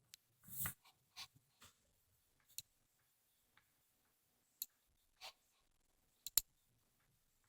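Quiet, scattered handling sounds of writing on paper: short pencil strokes and paper rustles, with two sharp clicks close together about six seconds in.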